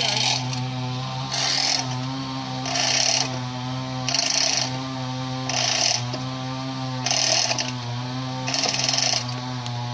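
A tractor engine running steadily, with a mechanical rasping noise repeating about every second and a half.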